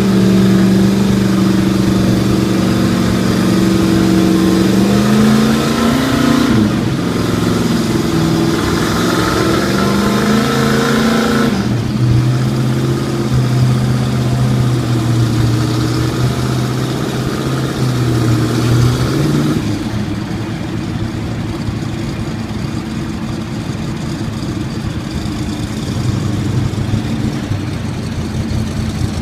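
1970 Plymouth Superbird's 426 Hemi V8 running, its engine note rising and falling as it is revved. From about twenty seconds in it sounds duller and a little quieter.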